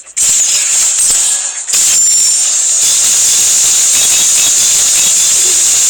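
Beyblade spinning tops whirring and scraping against each other in a plastic stadium, a loud steady hissing rattle that breaks off briefly about a second and a half in, then carries on.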